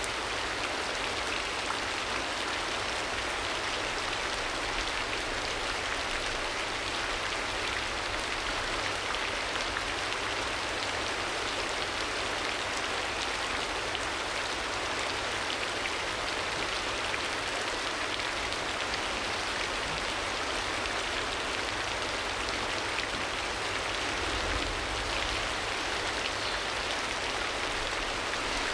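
Steady rain falling, an even hiss with no breaks, played as a background ambience track.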